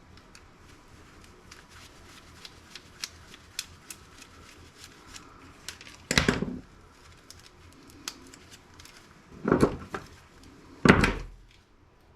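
A screwdriver working a small screw out of laptop parts: a run of small irregular clicks. These are followed by three louder, short clatters as the metal and plastic pieces are handled.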